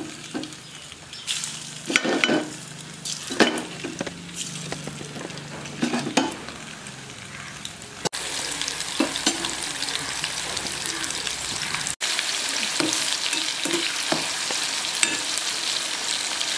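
Marinated boneless chicken pieces frying in hot oil in a kadai. For about the first half there is a gentle sizzle broken by a few sharp clicks. Then it becomes a louder, steady sizzle as the oil bubbles hard around the pieces.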